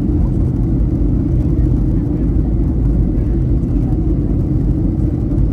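Steady low drone of a Boeing 737-800's CFM56-7B engines and airflow, heard inside the passenger cabin in flight.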